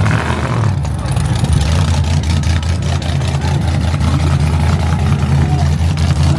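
Truck engine idling loudly with a low, steady, pulsing rumble.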